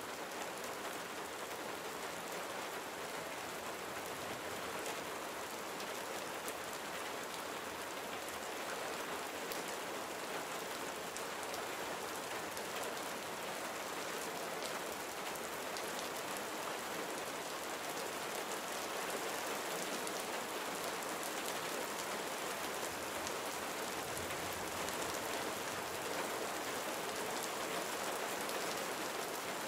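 Steady gentle rain falling, an even hiss with fine scattered drop ticks.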